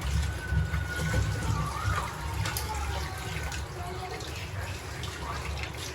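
Running water, with a few light clicks.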